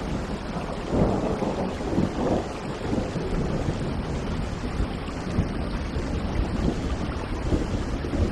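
Steady heavy rain with a low rumble of thunder underneath, swelling about a second in.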